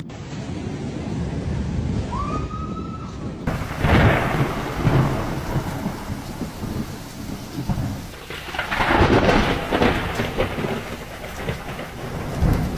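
Rainstorm noise, steady rain and wind with deep rumbles of thunder that swell about four seconds in and again around nine seconds. There is a brief faint gliding tone near two seconds, and the recording changes abruptly a little later.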